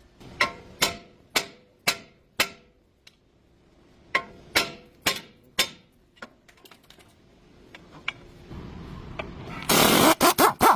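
Sharp knocks, each with a short ring, about two a second: five, a pause, then four more. Near the end comes a louder rattling burst about a second long.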